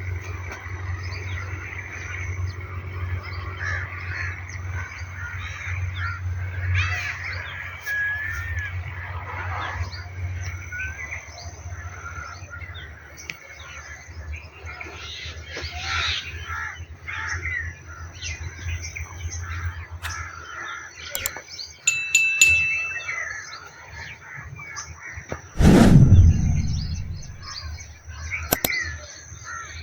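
Small birds chirping and calling over a low steady hum that fades out about two-thirds of the way through. About 26 seconds in, a loud brief thump with a falling rumble stands out above everything else.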